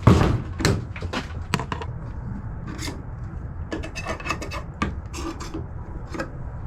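Handling noises: a knock at the start, then a string of short, irregular scrapes and rubbing clicks.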